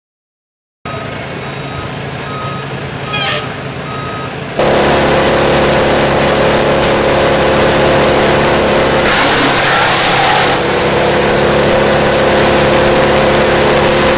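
Heavy forestry machine's engine running steadily, with a reversing alarm beeping in the first few seconds. About four and a half seconds in it turns much louder, a dense rushing noise over the steady engine.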